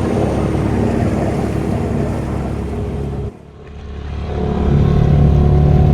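Boat engine running steadily under load, the sound cutting out abruptly a little over three seconds in and swelling back up over the next second or so with a deeper note.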